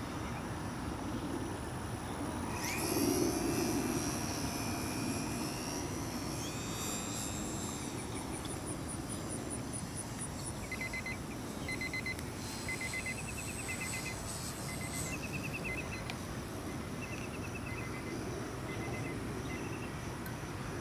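Electric motor and propeller of a Hobbyzone Super Cub RC plane whining in flight, coming in about two and a half seconds in, shifting in pitch with the throttle and fading out about three quarters of the way through. Short repeated chirps sound in the background in the second half.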